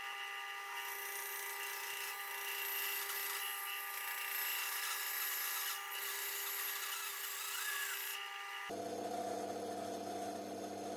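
Electric power tool cutting wood, a steady motor whine over the hiss of the cut; about nine seconds in the whine drops to a lower pitch.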